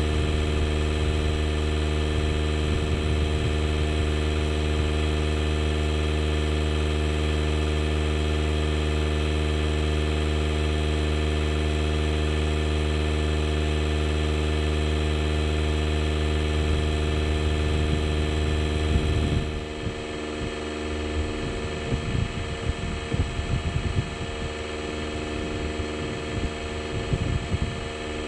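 DeWalt DCC020I cordless air inflator's compressor running steadily while inflating a truck tire, then shutting off about 19 seconds in, which fits its automatic stop at the preset 30 psi. After the stop there are irregular low knocks and handling sounds.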